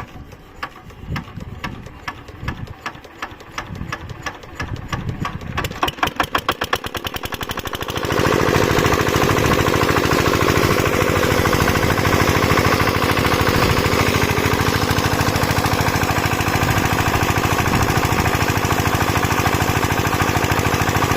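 Engine of a farm water pump starting up: separate knocking beats that quicken over the first eight seconds, then it settles into a loud, steady, rapid-firing run.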